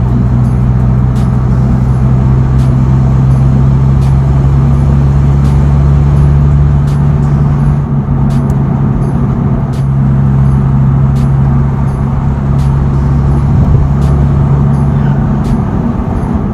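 Four-cylinder 1.8 TSI engine of an MK7 Golf under way through a straight-through 3-inch Magnaflow cat-back exhaust with no resonator or muffler, holding a steady, loud low drone.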